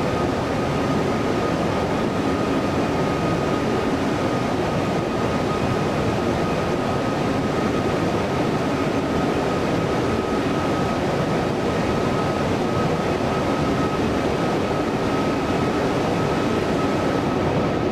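Jet airliner engines running steadily: an even rumble with a thin, steady whine over it.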